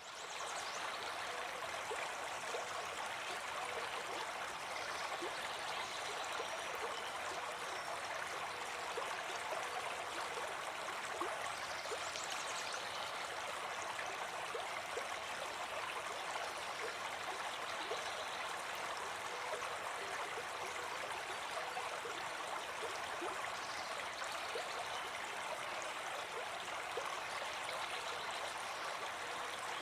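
River water flowing in a steady, even rush, fading in quickly at the very start.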